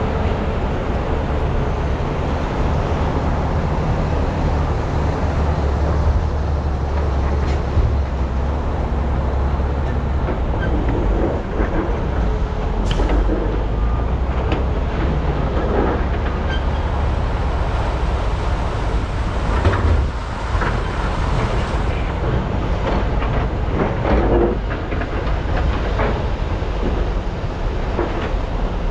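Large hydraulic excavators (Komatsu PC395 and SANY SY485H) with diesel engines running steadily under load while loading, with scattered knocks and rattles from the digging and dumping.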